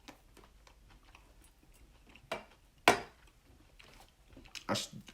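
A few sharp clicks and knocks of tableware and fruit being handled on a cutting board, the loudest one just before three seconds in, between short stretches of quiet.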